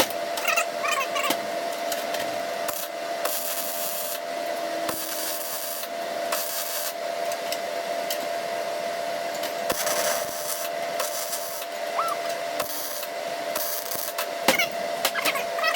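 Metal being worked by hand in short rasping spells that start and stop every second or two, over a steady hum.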